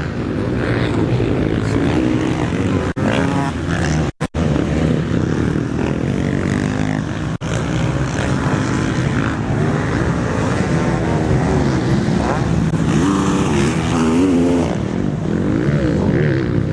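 Several motocross bikes revving hard as a pack races by, engine notes rising and falling and overlapping.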